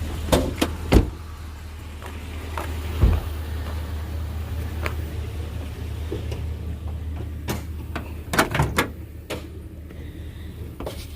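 A steady low engine hum under a series of sharp knocks and clunks of doors and metal parts on an old truck. The loudest knock comes about a second in, another about three seconds in, and a quick cluster follows around eight and a half seconds in.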